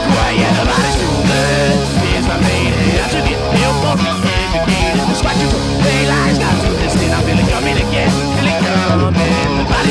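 A live punk rock band playing at full volume, with distorted electric guitar, bass and drums.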